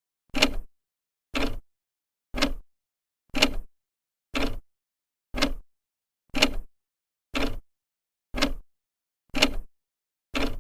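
Old clock's second hand ticking steadily, one sharp tick a second, each tick dying away within about a quarter second.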